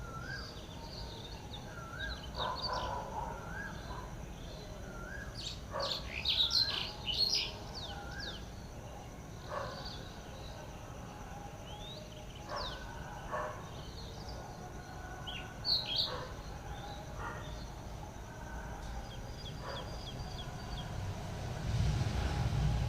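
Several wild birds calling and chirping, with one bird repeating a short rising whistle about once a second for the first several seconds, over a steady low rumble. Near the end a low rumble grows louder.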